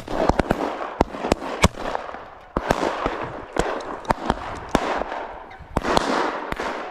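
Dry grass and brush rustling and crackling underfoot as a hunter pushes through upland cover. Sharp, irregular snaps of stalks break through the rustling.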